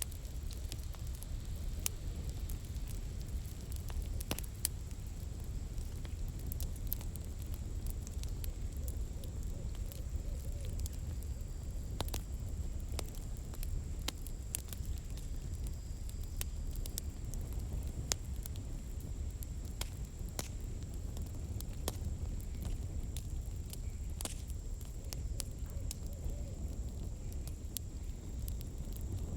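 Campfire burning, its firewood crackling with irregular sharp pops and snaps over a low steady rumble. A thin high-pitched tone holds steady underneath.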